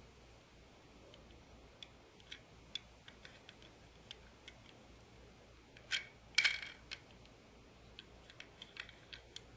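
Scattered light clicks and taps from die-cast toy cars being handled, with a louder short clatter about six seconds in.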